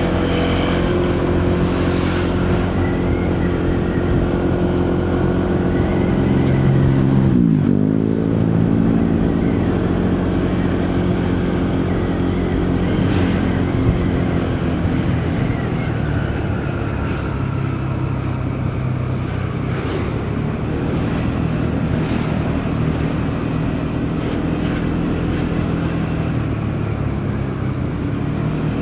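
Motorcycle engine running steadily under way, with city traffic passing around it. About seven seconds in, the engine note drops sharply and then climbs back up.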